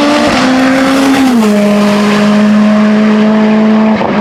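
Race car engine running hard at high revs. Its pitch steps down about a second in, then holds steady, with a brief break near the end.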